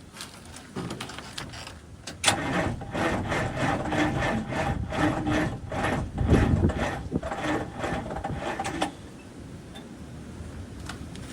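Cummins diesel engine being cranked over slowly by its starter in a cold start, turning in an even, labored rhythm without catching, and stopping about nine seconds in. The cranking is sluggish because the batteries are nearly dead.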